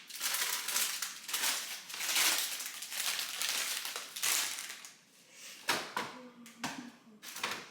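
Plastic crinkling and rustling for about four and a half seconds, then a few short knocks and clatters.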